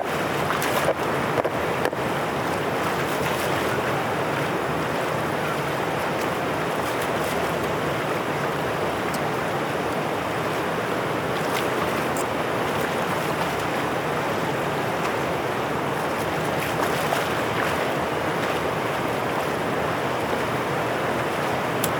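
Water rushing steadily through a dam drainage outlet after heavy rain, an even hiss with a few small knocks in the first two seconds.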